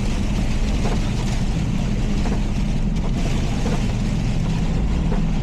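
Cabin sound of a Nissan Xterra driving in heavy rain: a steady low drone of engine and tyres under an even hiss of rain and road spray.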